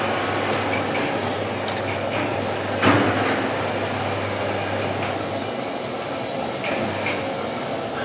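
Machine shop noise: a steady low hum and general clatter, with one sharp metallic knock about three seconds in. The hum stops about five and a half seconds in.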